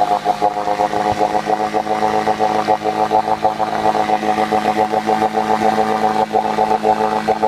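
15-horsepower outboard motor idling steadily, with a fast, even pulse and no change in speed.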